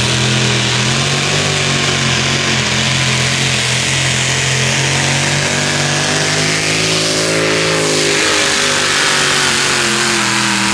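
Competition pulling tractor's diesel engine running loud at high revs under load as it drags the sled, its pitch dipping briefly about eight seconds in.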